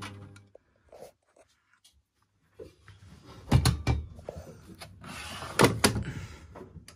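A steady machine hum cuts off about half a second in. After a short near-quiet, a washing machine is handled: irregular clatter and sharp knocks, with a loud knock about three and a half seconds in and two more close together near six seconds, like its door or detergent drawer being worked.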